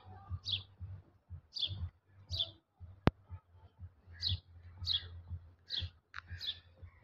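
A small bird chirping over and over, short high chirps roughly one or two a second, over a low rumble. A single sharp click about three seconds in is the loudest sound.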